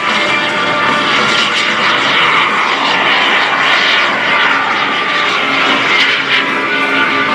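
PBS TJ100 turbojet of a Super Salto sailplane, running continuously as the glider flies its aerobatic display.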